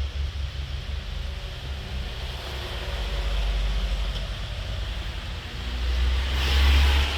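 Low steady rumble of outdoor noise, swelling about six seconds in.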